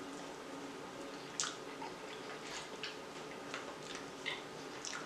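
Mouth sounds of a person chewing cheese-sauce-covered fried chicken: soft, wet smacks and clicks, about half a dozen, irregularly spaced.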